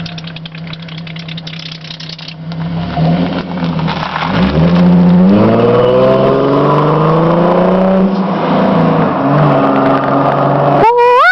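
1999 Chrysler 300M's 3.5-litre V6 through a Flowmaster exhaust, first running steadily, then accelerating hard from about four and a half seconds in, its revs climbing and the exhaust note staying loud. A short, sharply rising high sound cuts in near the end.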